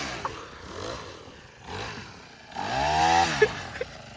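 Honda engine being revved in short blips just after a cold start, its pitch rising and falling about three times.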